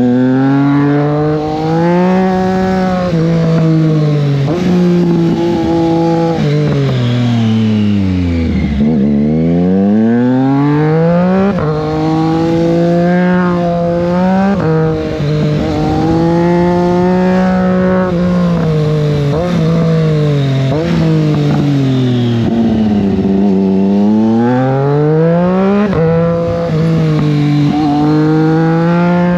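Triumph Street Triple 660 S inline three-cylinder engine pulling hard through the gears. Its pitch climbs and dips briefly at each upshift. Twice, about a third of the way in and again near three-quarters, it falls away as the bike slows, then climbs again.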